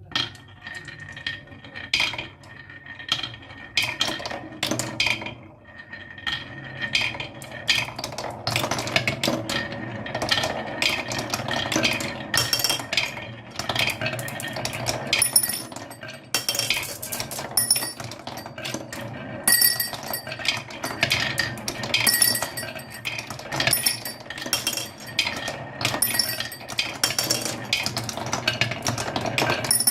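Many marbles rolling and clacking down a wooden marble run: a dense, continuous stream of clicks and clinks over a rolling rumble, with short ringing tones now and then.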